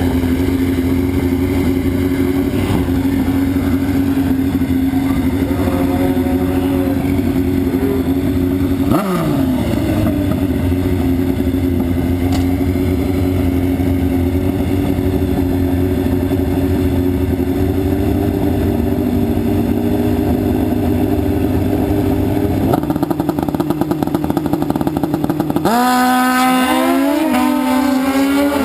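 Suzuki drag-racing motorcycles' engines running at steady high revs. Near the end the pitch climbs in repeated rising sweeps that drop back and climb again, as a bike accelerates hard and shifts up through the gears.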